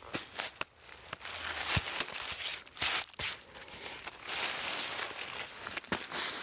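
Knife slicing through raw ribeye steak: scraping cuts with a few sharp knocks of the blade on the cutting board.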